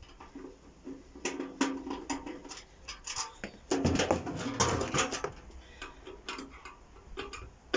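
Hand tools knocking and clicking against the metal casing and parts of a microwave being dismantled, with a louder clattering stretch about four seconds in.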